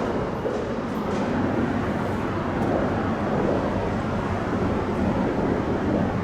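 Steady rumble of a moving Amtrak passenger train, with no horn or bell.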